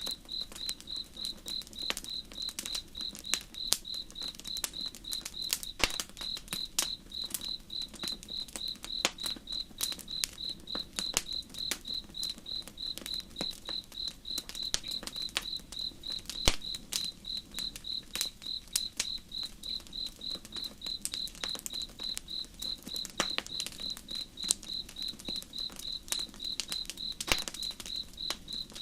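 Campfire crackling with sharp, irregular pops over a cricket chirping in an even, high-pitched pulse of about three chirps a second. A faint low rush of flowing river water lies underneath.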